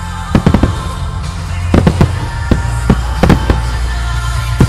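Aerial firework shells bursting in rapid clusters of sharp bangs, with ground-launched comets firing below, over music with a steady bass.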